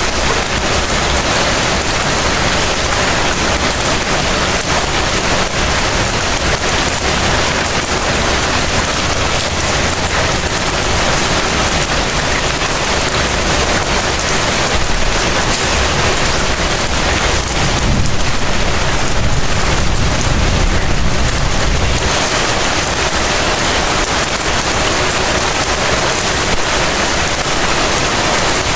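Heavy rain falling in a steady, dense hiss. A low rumble builds about halfway through and fades several seconds later.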